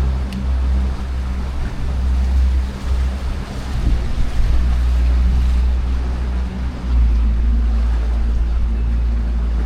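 Small tour boat's motor running steadily under way, with water rushing along the hull and wind buffeting the microphone in a deep, uneven rumble.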